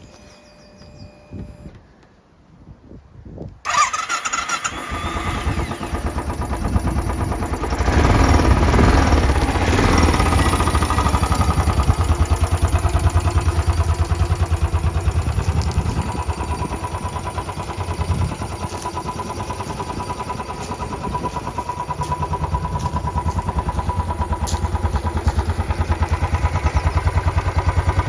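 Royal Enfield Bullet Trials 500's single-cylinder engine starting about four seconds in. It runs louder for a few seconds, then settles into a steady, evenly beating idle.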